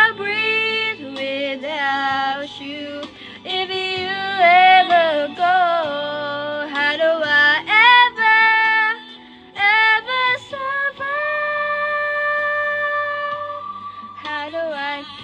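A woman singing a song over a backing track, her voice wavering with vibrato, with one long held note about eleven seconds in.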